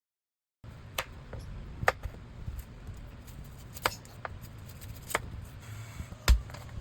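Kitchen prep handling sounds: scattered sharp clicks and knocks, roughly one a second, with a heavier thump near the end, over a low background rumble. The sound cuts in after a brief silence at the start.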